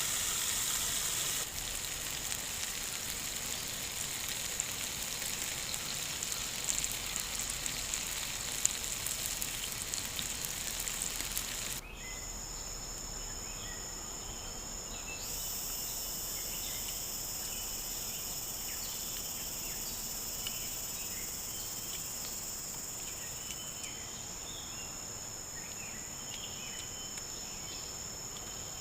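Food sizzling and crackling on a hot cooking stone, cutting off abruptly about twelve seconds in. A steady, high-pitched chorus of rainforest insects follows, with scattered small chirps.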